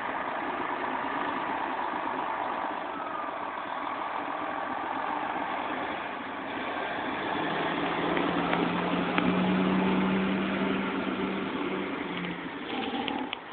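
Fire ladder truck's engine running as the truck pulls out on a call. A steady low drone swells for several seconds in the middle, then fades.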